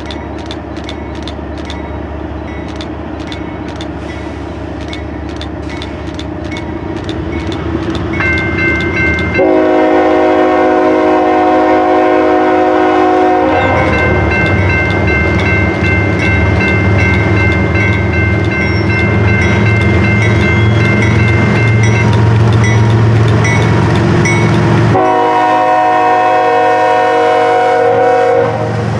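CSX freight train led by GE diesel locomotives approaching: a bell rings about twice a second while the engines' rumble grows louder. From about 9 s on the locomotive sounds its multi-chime air horn in long blasts, with a break before a final blast near the end.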